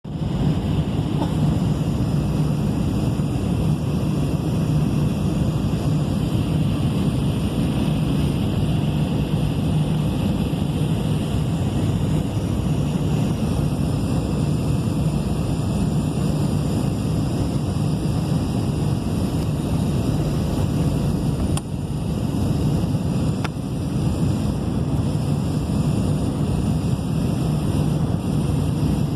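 Steady roar of an Airbus A319's jet engines and airflow heard from inside the passenger cabin during the landing approach, deep and even throughout.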